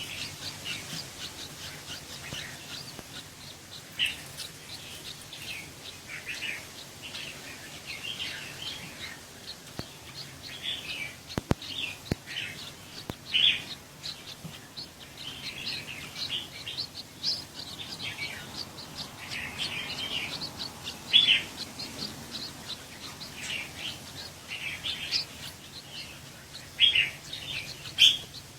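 Bird chicks chirping, many short high chirps coming irregularly and overlapping throughout.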